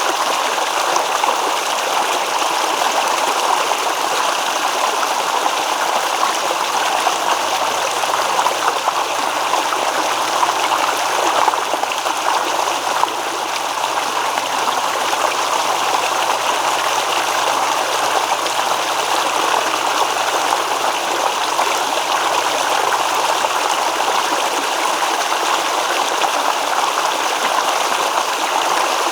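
A stream babbling steadily, its running water making an even, unbroken rush.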